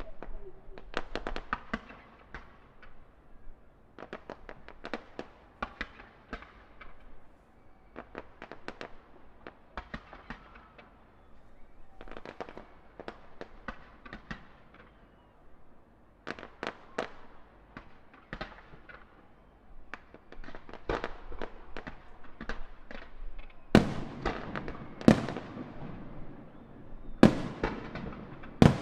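Fireworks display heard from a distance: a steady run of crackling pops and bangs. It grows denser and louder in the last few seconds, with several big booms that echo on afterwards.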